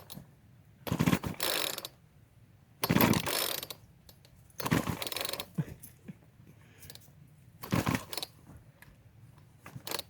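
Poulan Wild Thing chainsaw's recoil pull starter being pulled four times, about two seconds apart, on full choke; the two-stroke engine turns over without firing because the pulls are too weak.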